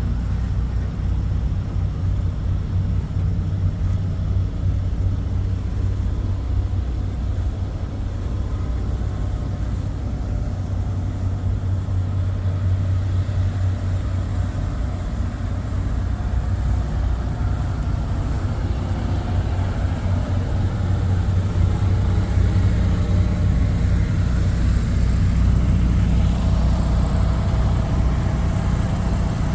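Engine of a 1938 Ford Pro Stock pulling truck running steadily, with most of its sound low in pitch, getting somewhat louder about two-thirds of the way through.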